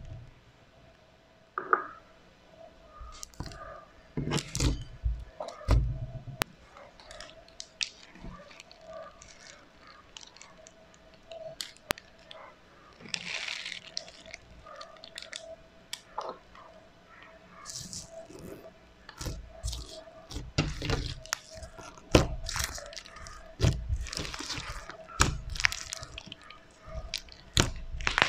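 Slime packed with foam beads being squished and poked by hand, giving irregular crunchy crackles and pops.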